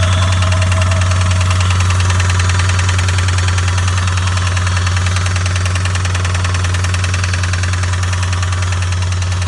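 Car engine idling steadily with a fast, even knock, which the owner thinks comes from the top end of the motor, though he could be wrong.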